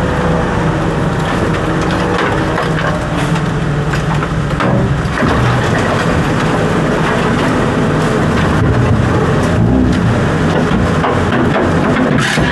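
An engine running steadily under a continuous crackling, crunching clatter.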